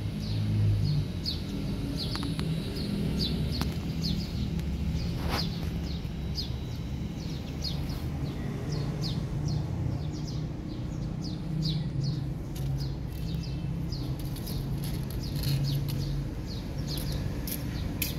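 Small birds chirping, many short quick chirps one after another, over a steady low rumble.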